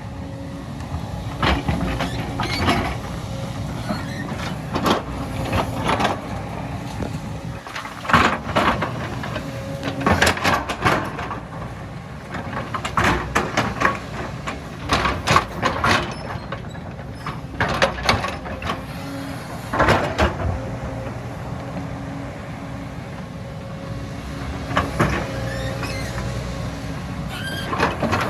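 A hydraulic excavator's diesel engine running steadily under load, broken by repeated short bursts of scraping and crashing as the machine works.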